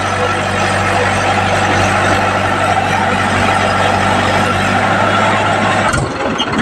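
A tractor's diesel engine running steadily. It cuts off abruptly near the end and gives way to a rougher, uneven engine sound.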